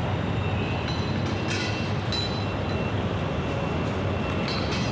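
Steady low rumble of heavy construction machinery with street traffic, broken by a few short high-pitched squeals about a second and a half in, at two seconds, and again near the end.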